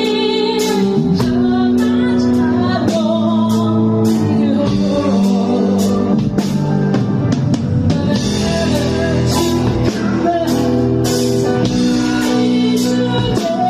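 Band music with singing over drum kit and guitar, with steady drum and cymbal hits throughout.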